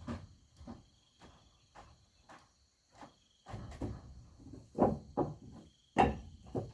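A series of irregular knocks and taps, a few to the second, loudest about five and six seconds in, over a steady high chirring of insects.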